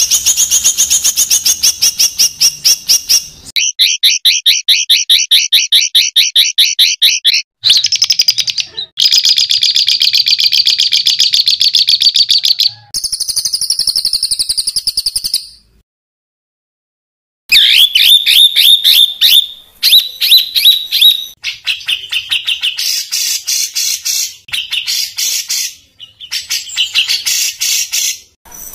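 Songbird song in harsh, rapid 'tembakan' trills: phrase after phrase of fast, evenly repeated high notes, broken by a silent gap of about a second and a half a little past the middle.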